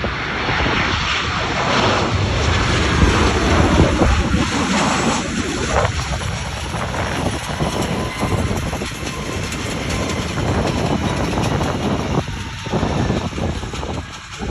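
Boeing 737-800 airliner's CFM56 jet engines, a loud steady rush with a faint whine over it, with wind buffeting the microphone.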